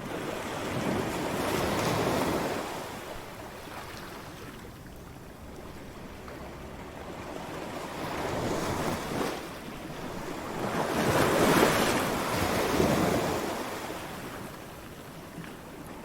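Ocean waves breaking on a shore and washing back, a steady rush with three swells: one about two seconds in, a smaller one past the middle, and the loudest a little later.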